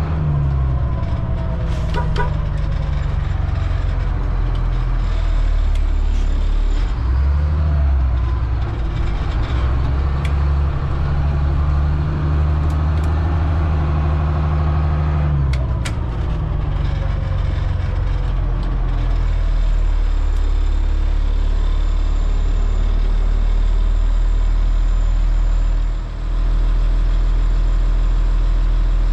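Caterpillar C7 diesel engine of a Blue Bird All American school bus running while the bus drives. Its pitch rises and falls several times in the first half, then holds steadier, with a few sharp clicks.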